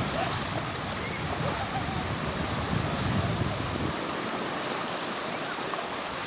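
Steady wash of sea water with wind buffeting the microphone in uneven low gusts.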